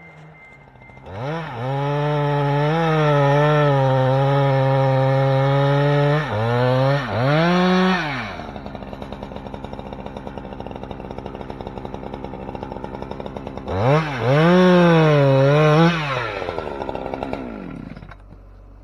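Two-stroke chainsaw revved to full throttle, its pitch wavering as it is held high, blipped twice, then dropped to a ragged idle. It is revved high again for about two seconds before winding down near the end.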